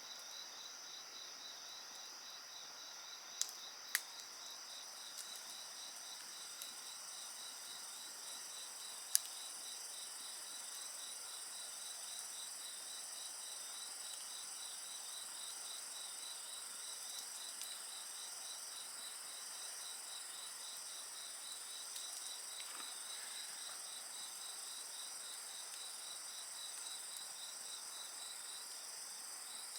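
A chorus of crickets and other insects trilling steadily, one of them in a fast pulsing rhythm. Three sharp pops from a wood campfire cut through: two close together about three and a half seconds in, and the loudest about nine seconds in.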